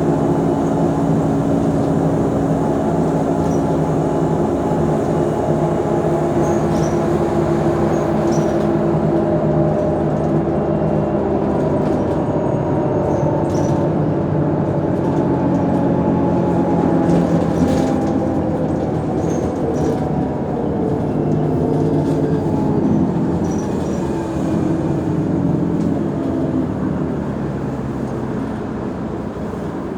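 Mercedes-Benz O345 Conecto G articulated bus's engine running, steady at first, then its revs falling gradually through the second half as the sound eases off. Faint light clicks and rattles come through now and then.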